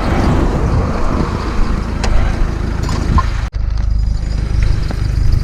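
Car engine running with a steady low rumble, heard from close by; the sound drops out for an instant about three and a half seconds in.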